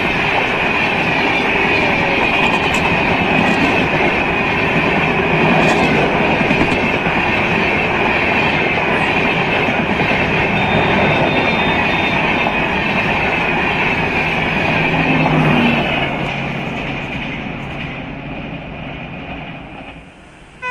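Passenger train coaches rushing past at speed: a steady roar of wheels on rail with a high hiss and a few sharp wheel clicks. It fades away in the last few seconds as the end of the train passes and recedes.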